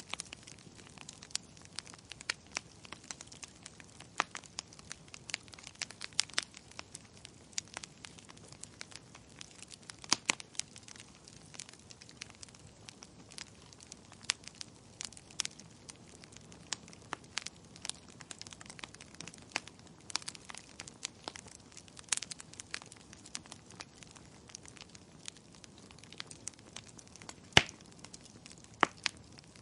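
Wood fire crackling in a fireplace: irregular sharp pops and snaps, several a second at times, over a soft steady hiss, with one louder pop near the end.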